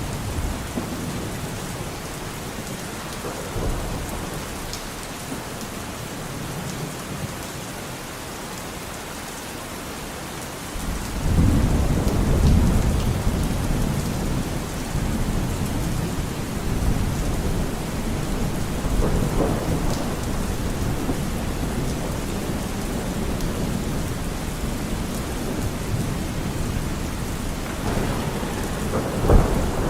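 Steady heavy rain falling on forest foliage, with thunder rolling in. A long low rumble swells about a third of the way in, and a sharper clap comes near the end.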